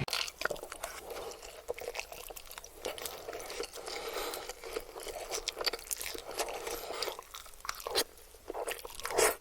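Close-miked mukbang eating: a person chewing and biting food, with irregular wet clicks and crunches.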